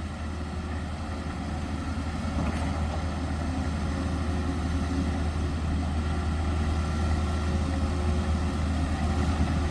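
Diesel engines of heavy road-building equipment running steadily with a low drone, growing slightly louder about two seconds in, as the machines pack down a gravel road base.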